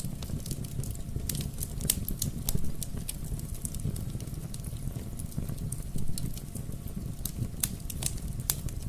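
Wood fire in a fireplace crackling, with frequent irregular sharp pops over a steady low rumble of burning.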